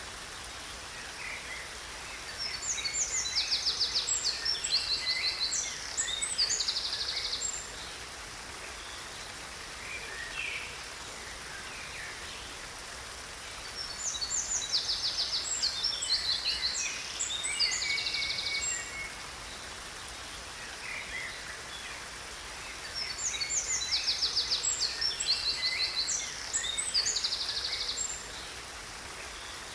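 Songbirds singing in bursts of rapid trills and chirps, three times about ten seconds apart, over the steady rush of a waterfall.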